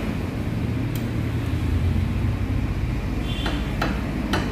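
A motor vehicle engine running steadily with a low rumble. A single click comes about a second in, and a few sharp clicks come near the end.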